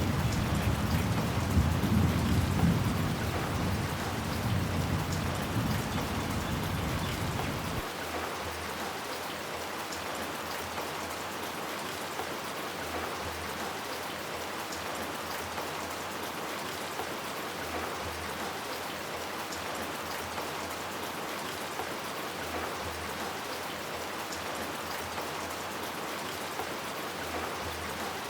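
Steady rain falling, with a low rumble of thunder under it for the first several seconds that cuts off abruptly about eight seconds in.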